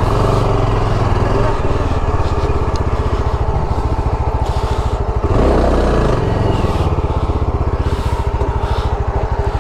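Motorcycle engine running steadily with an even, rapid beat. It rises in a brief rev about five seconds in, then settles back.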